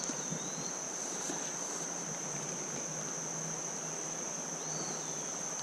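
A continuous high-pitched insect trill, holding one steady pitch over the even rush of creek water. Two faint short whistles sound, one just after the start and one near the end.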